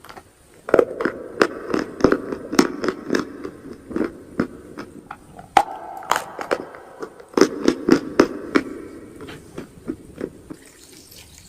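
Close-up chewing of crunchy chalk and clay: sharp, irregular crunches with wet mouth sounds, thinning out near the end.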